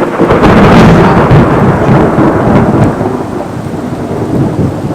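Loud rolling thunder from a close lightning strike, swelling in the first second and easing off after about three seconds, over torrential rain.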